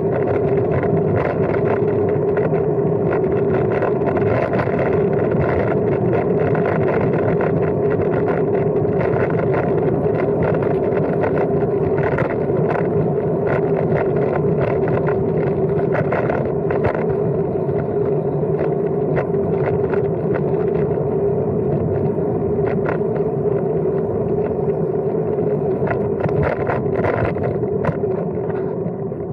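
Riding noise from a Brompton M3L folding bike: a steady hum of tyres and air, with frequent small rattles and knocks from the bike over the track surface.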